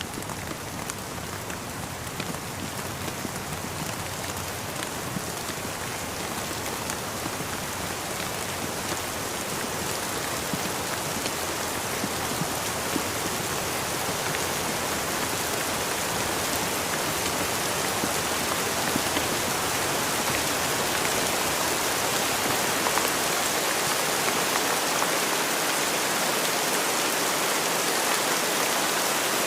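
Steady rain falling, a dense hiss with scattered drop ticks, growing gradually louder.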